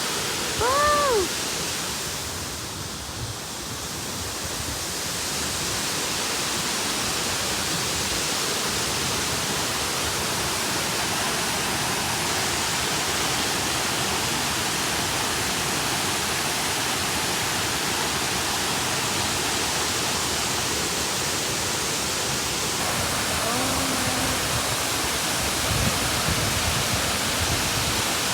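Waterfall roaring as a steady rush of falling water. About a second in, a person's voice lets out a short whoop.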